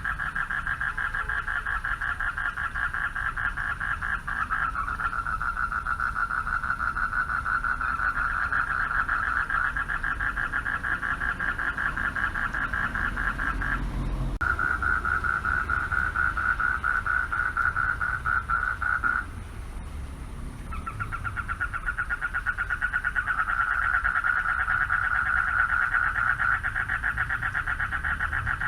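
Chorus of male frogs calling for mates at a pond, a dense run of rapid pulsed trills. The chorus stops briefly about halfway through, then again for over a second a few seconds later before picking up again.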